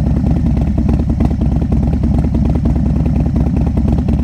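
Harley-Davidson Dyna motorcycle's V-twin engine running at a steady idle, a low even pulsing rumble with no revving.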